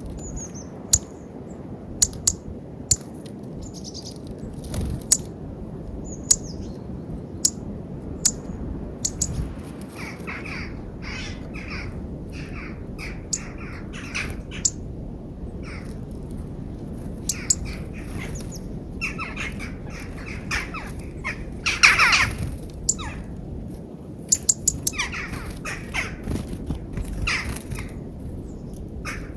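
Wild birds calling at a peanut feeder in snow, in short repeated notes that begin about a third of the way in, with one louder call in the last third. Sharp clicks are scattered throughout over a steady low rumble.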